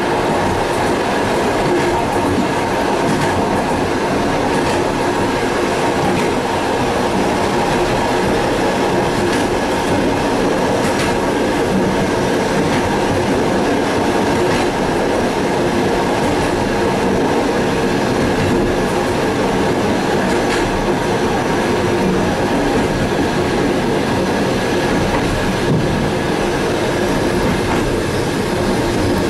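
Suburban passenger train running along the line, heard from inside the end vestibule of a carriage: a steady rumble of wheels on the rails with a few steady ringing tones over it and an occasional faint click.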